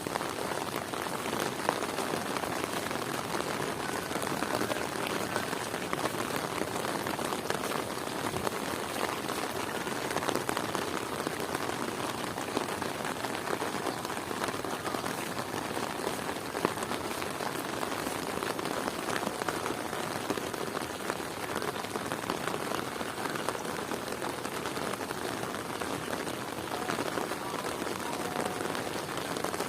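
Heavy rain falling steadily: a dense, even patter of countless drops hitting the surfaces around.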